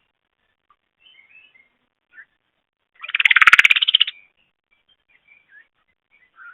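Birds chirping faintly at a feeder, with one loud, rapid, trilling chatter lasting about a second, about three seconds in.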